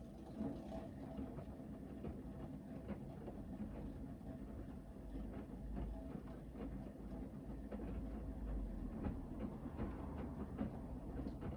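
Hoover VHD 9163 ZI washing machine drum turning one way in a wash tumble, the wet laundry rumbling and knocking with water sloshing for about eleven seconds, then stopping suddenly for the pause before it reverses.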